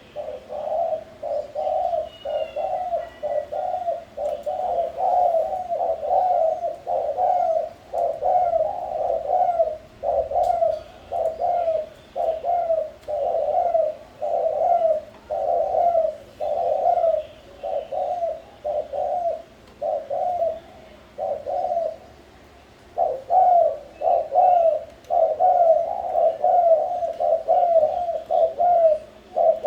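Spotted doves cooing continuously in quick repeated phrases, about two coos a second, with one short pause about three quarters of the way through. Faint chirps of other small birds sound higher above the coos.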